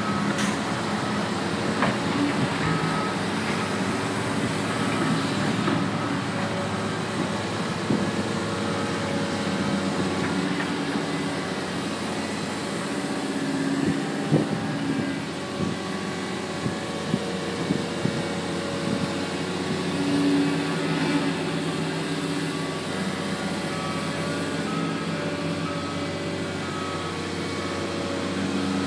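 Heavy diesel digging machinery, a backhoe with a front loader, running steadily under load, with a repeating reversing beeper and a few sharp metallic knocks around the middle.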